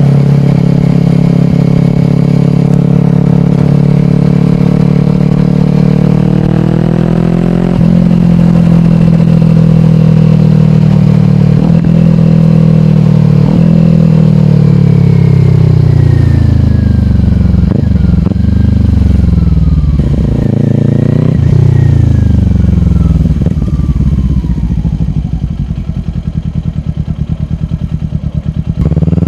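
Kawasaki Ninja 400's parallel-twin engine through a slip-on exhaust, riding under way: the revs climb and break at a gear change about eight seconds in, hold steady, then fall away as the bike slows. Several short rev blips on downshifts come after that, and the engine runs at low revs and more quietly near the end.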